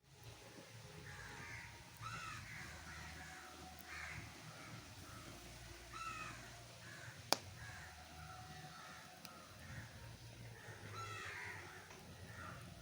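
Bird calls, likely crows cawing, repeated in short groups every couple of seconds over a low hum. A single sharp crack about seven seconds in is the loudest sound.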